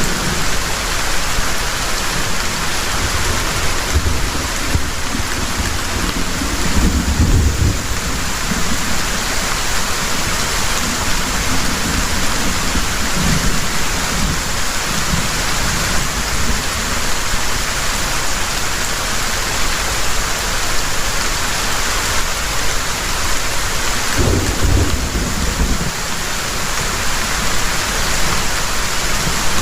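Heavy rain falling steadily, with low rolls of thunder rumbling under it, strongest about seven seconds in and again around twenty-five seconds in.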